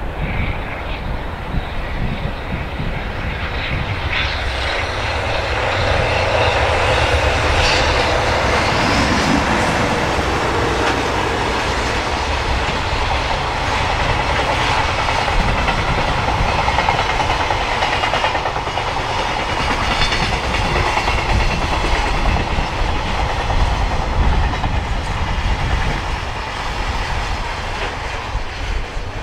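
Train passing close by, its wheels running on the rails in a steady loud rumble that builds a few seconds in and eases near the end.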